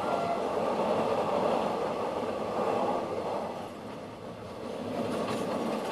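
Passenger train running at speed, a steady rumble of wheels on rail heard from aboard a coach, easing slightly about four seconds in and building again a second later.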